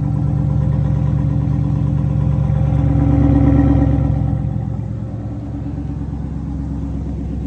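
Chrysler 300S engine and exhaust, with the resonators and mid-pipes cut, running under way with a steady drone that swells to its loudest about three and a half seconds in, then eases off.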